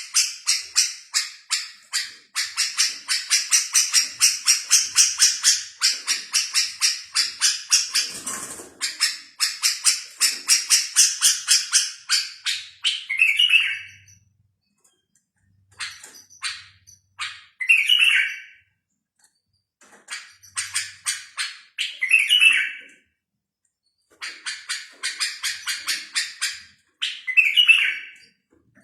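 A songbird singing fast runs of short, high chirps, about six a second. Each run ends in a louder, lower note and a pause of a second or two, and this repeats four times in the second half.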